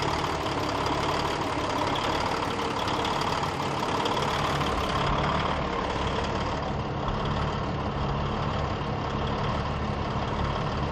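Rally truck diesel engines idling steadily.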